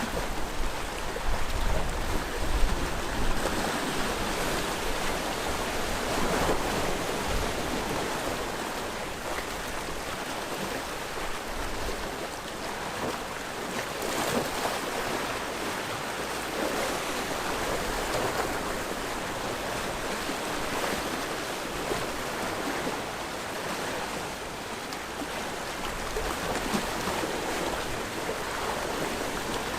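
Sea waves washing against a rocky shore, a continuous wash of surf rising and falling every few seconds, with some low wind rumble on the microphone in the first few seconds.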